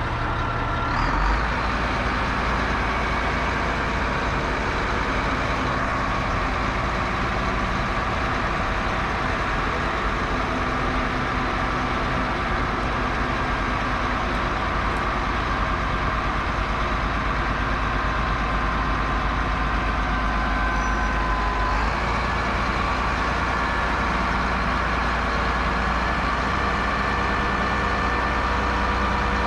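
Crane's engine running steadily, its pitch stepping up about a second in and shifting again about twenty-two seconds in.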